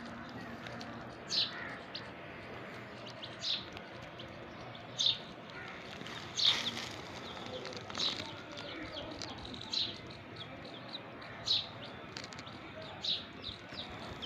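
Young chicks peeping: short, high cheeps, one every second or two, over a low steady background hum.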